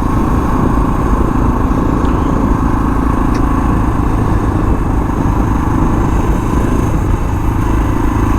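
Suzuki DR650's single-cylinder thumper engine running steadily at cruising speed while the bike is ridden.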